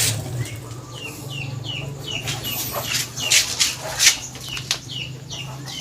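Chickens calling, a run of short, high, downward-sliding calls repeated several times a second, over a steady low hum, with a few sharp knocks.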